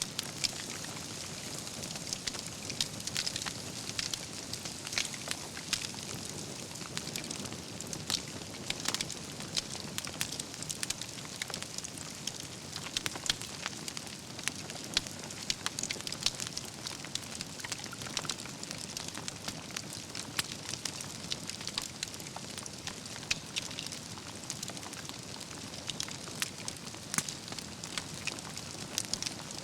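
Wood fire burning, with a steady hiss and frequent sharp, irregular crackles and pops from the burning logs.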